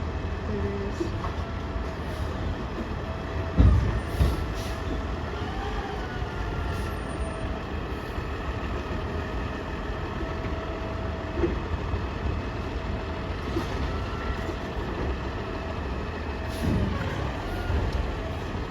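Garbage truck running with a steady low engine rumble and a steady whine over it, with two heavy thumps about four seconds in and a few lighter knocks later.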